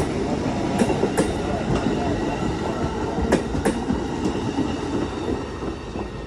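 Amtrak passenger train rolling past as it departs, with a steady rumble of wheels on rail. Pairs of sharp clicks come from wheelsets crossing rail joints, about a second in and again past three seconds, and the sound eases slightly near the end.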